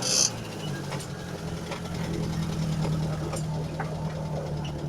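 Moskvich car engine running steadily on LPG while driving in first gear, a low even hum with a brief hiss at the very start.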